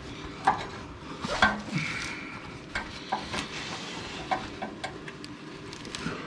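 Steel screwdriver clinking and scraping against an exhaust hanger and pipe as the hanger is pried off its nub, in irregular knocks and short metallic rings.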